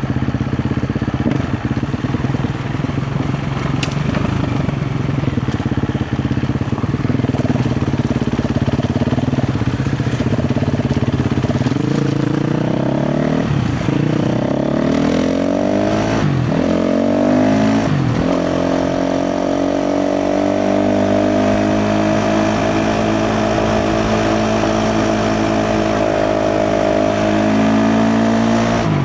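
KTM 350 XC-F dirt bike's single-cylinder four-stroke engine running at low revs, then revving up in three quick rises, each cut off by a brief drop, around the middle, before holding a steady higher note.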